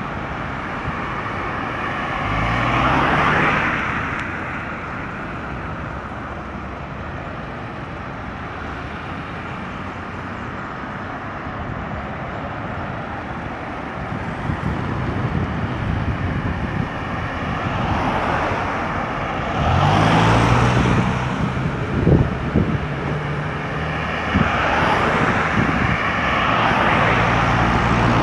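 Road traffic passing at a highway junction: a steady rumble of tyres and engines, with vehicles swelling past about three seconds in, again around twenty seconds, and near the end.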